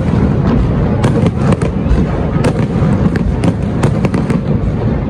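Fireworks exploding in quick succession: many sharp bangs over a continuous low rumble.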